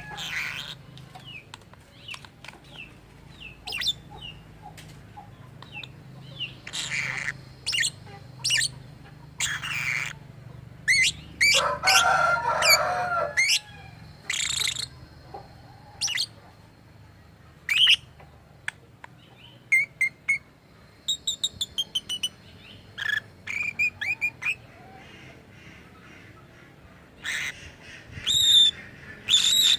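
Lovebird calling: many short, shrill chirps and squawks, with a louder pitched burst of about two seconds near the middle and quick runs of short repeated chirps later on.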